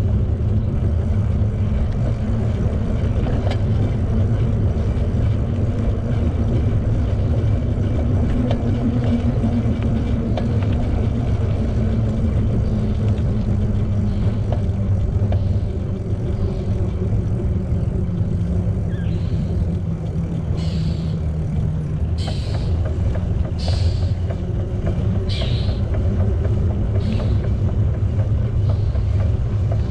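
Steady low rumble of wind buffeting the microphone and tyre noise from a bicycle being ridden. In the second half come about six short high sounds, evenly spaced.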